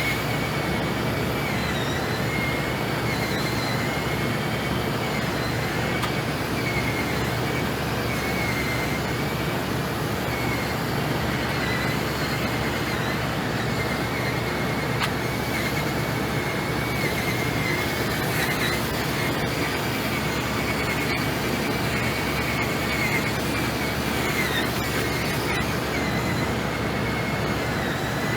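Cordless drill running continuously with a polishing pad on a plastic headlight lens, its motor whine wavering slightly as the pressure changes. A building's HVAC unit adds a steady hum and rush underneath.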